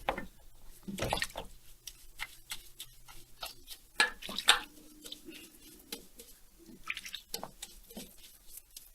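Small metal parts being handled on a workbench: irregular light clicks and clinks, with louder taps about a second in and around four seconds in.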